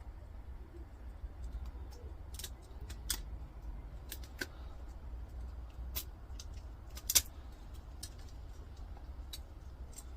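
Scattered sharp clicks and taps of small metal parts and hand tools, a dozen or so at uneven spacing, the loudest about seven seconds in, as copper pieces are picked out of a meter's small switch. A low steady hum runs underneath.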